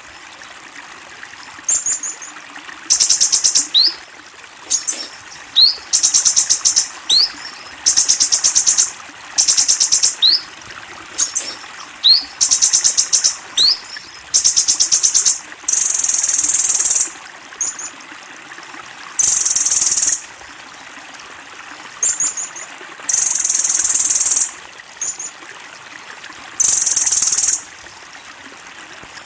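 Kolibri ninja, a small sunbird, singing high, rapid trills about a second long again and again, with short upward-sweeping notes between them. A steady faint hiss like running water lies behind it.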